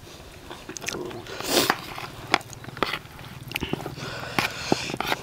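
Close-up chewing and biting of crispy-skinned duck larb, with sharp clicks of a metal spoon against the plate scattered throughout.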